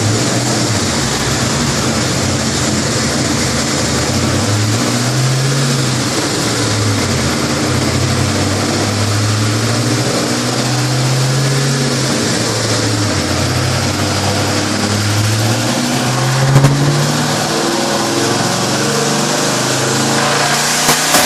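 Twin-turbo 302 stroker V8 in a Mustang GT running at low revs, its note wavering up and down unevenly, with a steady hiss over it. There is one sharp pop about sixteen seconds in, and a few ticks near the end.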